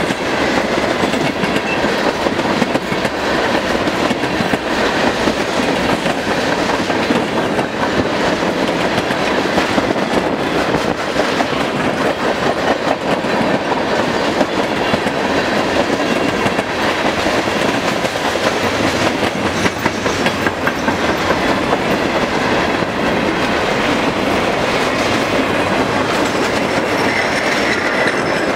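Freight train tank cars rolling past at speed: a steady rumble and clatter of steel wheels over the rail joints.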